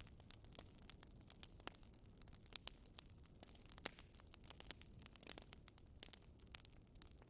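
Wood fire in a fireplace crackling quietly: irregular sharp pops and snaps, several a second, over a soft low rumble of the burning.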